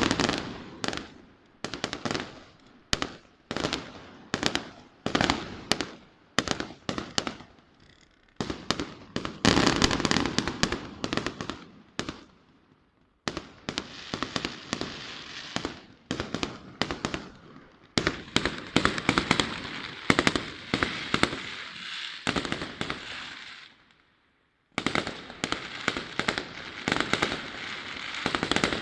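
Aerial fireworks display: shells bursting in rapid runs of sharp bangs, with a long stretch of dense crackling. The sound cuts out for about a second near the end, then the bangs start again.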